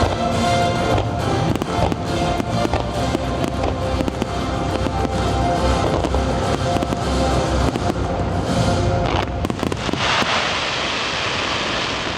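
Fireworks going off in quick succession, many sharp bangs and crackles, over the show's accompanying music. Near the end the separate bangs give way to a dense rushing noise.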